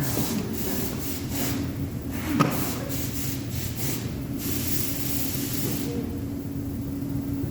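Arc welding: the electric arc crackling and hissing in irregular spurts, stopping about six seconds in, over a steady low hum.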